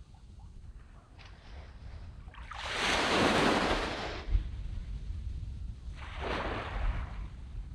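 Small waves breaking and washing up on a sandy beach. The loudest breaks about three seconds in, a weaker one follows about six seconds in, and there is a low rumble underneath.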